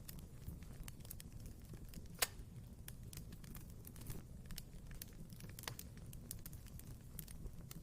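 Wood fire burning in a fireplace with a low steady rumble and irregular sharp crackles and pops, the loudest pop about two seconds in.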